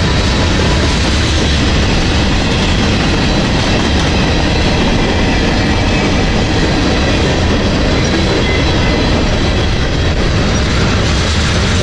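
Freight train rolling past with a steady, loud rumble of steel wheels on the rails.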